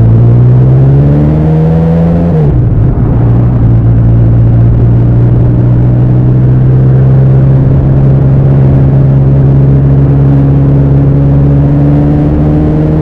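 Bimota SB3's Suzuki GS1000 inline-four engine and exhaust, loud, pulling under way. The revs climb for about two seconds, drop sharply about two and a half seconds in, then hold nearly steady and slowly climb again near the end.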